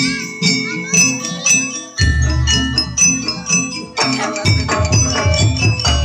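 Jaranan gamelan music: metal keyed instruments and bells struck in quick, overlapping runs over drums, with a deep low stroke about two seconds in and again near the end.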